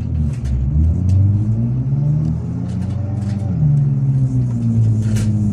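A small car's engine revving, rising and falling in pitch again and again as it strains to get through deep snow.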